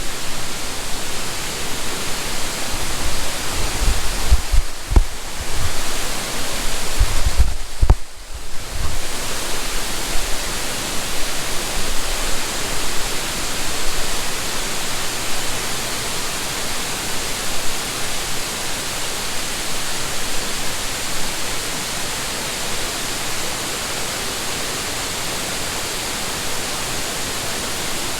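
Steady rushing of a large waterfall, heard from the top of the falls, with a few low thumps and knocks in the first third.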